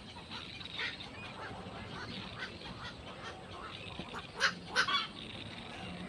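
Birds calling: many short calls throughout, with two louder, sharper calls about four and a half and five seconds in.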